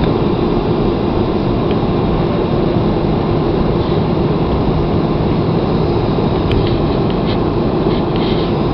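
Airliner cabin noise heard from inside the passenger cabin: a loud, steady rumble of engines and airflow with a constant hum.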